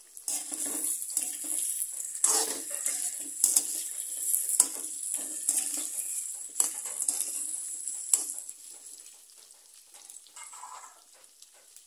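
Potato chunks frying in hot oil with cumin seeds and garlic in a wok, sizzling steadily while a slotted steel spoon stirs them, scraping and knocking against the pan several times. The sizzle dies down about eight seconds in.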